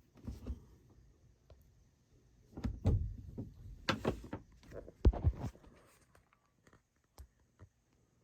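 A run of mechanical clicks, knocks and thuds from handling the Yamaha K-40 double cassette deck. Most of them come between about two and a half and five and a half seconds in, with a few lighter ticks after.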